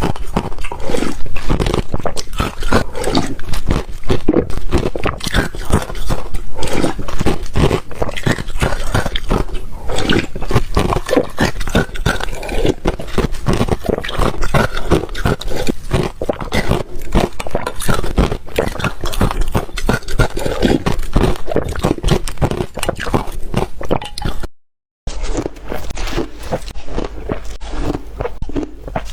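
Ice being chewed close to the microphone: continuous, rapid, irregular crunching as the cubes are bitten and ground between the teeth.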